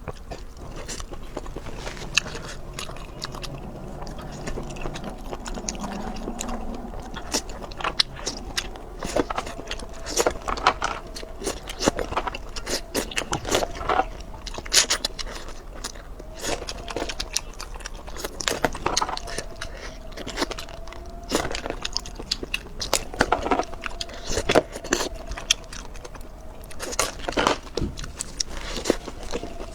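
A person biting and chewing food close to the microphone, with repeated sharp crunchy bites spread irregularly throughout.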